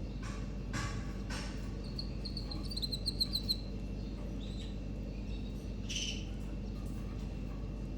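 Raza Española canaries chirping: a quick run of about ten short, high chirps a couple of seconds in, with a few single calls before and after, over a steady low hum.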